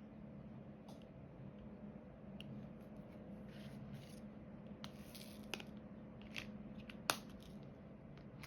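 Small scattered clicks and short scrapes of diamond painting work: the drill pen and resin drills being handled on the canvas and tray, with one sharper click about seven seconds in.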